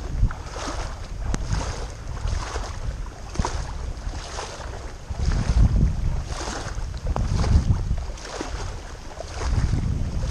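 Floodwater sloshing and splashing in surges roughly once a second as a person wades through it nearly waist deep, with wind buffeting the microphone.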